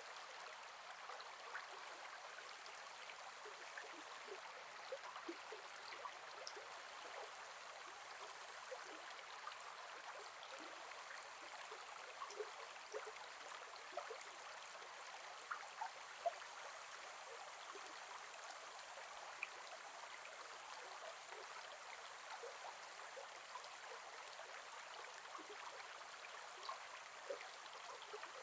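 Gentle forest river flowing: a soft, steady rush of water with small babbling splashes and plinks scattered throughout.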